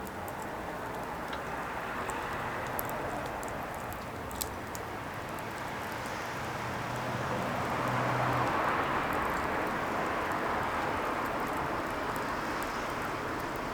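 Wood fire burning: a steady rushing hiss of flames with a few scattered sharp crackles and pops, one standing out about four seconds in.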